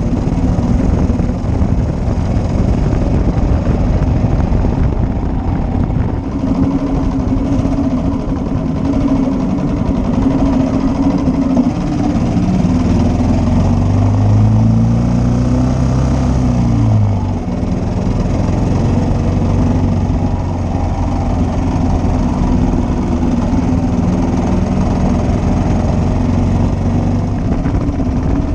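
1941 Matchless G3L's 350 cc single-cylinder engine running steadily. Its note rises about halfway through, then falls away sharply a little later.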